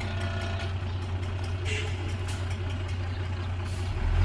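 Heavy diesel engine of construction machinery running steadily at a low idle, with a brief hiss a little under two seconds in; the engine grows louder near the end.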